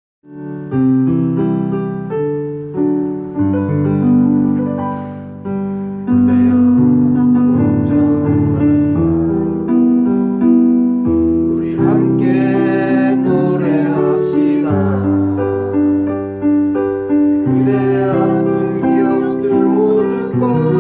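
Instrumental keyboard music, an electric-piano-like introduction with sustained chords and a melody in steady notes, starting from silence.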